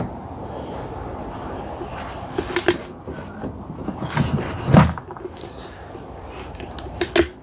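A few clicks and knocks of objects being handled, the loudest a thump about four to five seconds in, over a steady low background noise.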